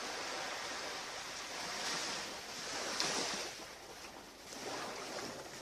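Ocean surf washing onto the beach, swelling twice in the first three seconds and then fading.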